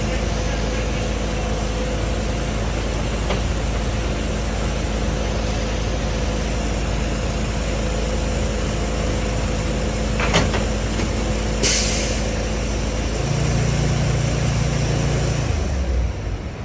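Heavy diesel fire trucks idling steadily. There is a sharp click about ten seconds in, then a brief hiss of released air. Near the end the engine note shifts.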